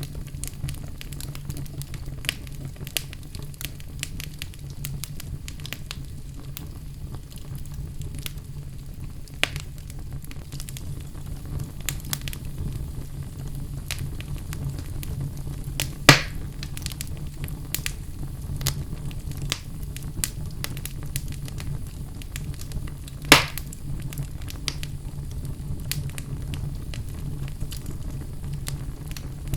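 Wood fire burning in a fireplace: a steady low rumble of flames with constant small crackles, and two louder sharp pops a little past the middle, about seven seconds apart.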